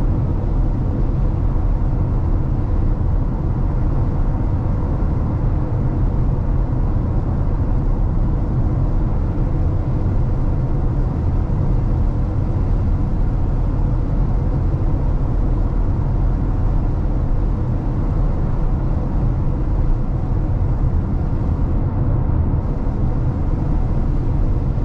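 Steady tyre and road noise heard from inside the cabin of a 2022 Tesla Model X cruising on a wet highway in the rain. It is a constant low rumble with a faint steady hum above it, and there is no engine sound.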